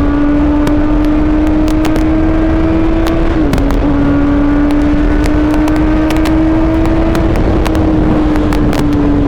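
Suzuki GSX-R750's inline-four engine running at steady riding revs, its pitch climbing slowly, dipping briefly about three and a half seconds in, climbing again and easing off near the end. Heavy wind rumble on the microphone throughout.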